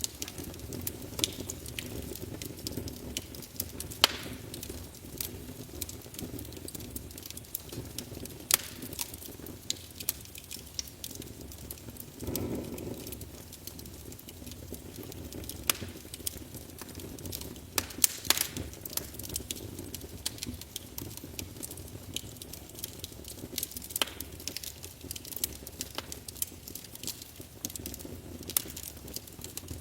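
Wood fire burning in a fireplace, with irregular sharp crackles and pops over a steady low rush of flame.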